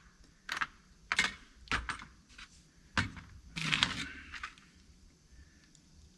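Small metal hand tools and screws being handled on a workbench: several light clicks and knocks, then a brief rattle about three and a half seconds in.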